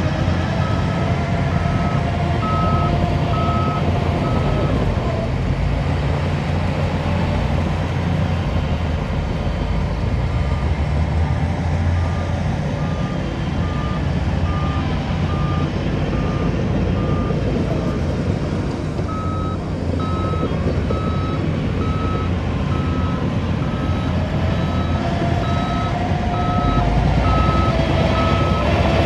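A heavy earth-moving machine's reversing alarm beeping in a steady rhythm over the rumble of its diesel engine, the beeping dropping out for a few seconds early on and resuming.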